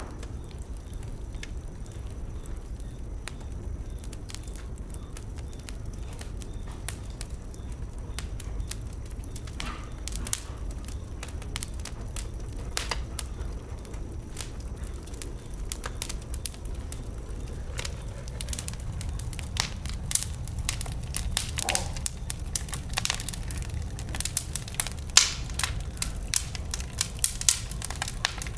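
Wood bonfire burning: sharp crackles and pops over a low steady rumble, sparse at first and growing denser and louder in the second half.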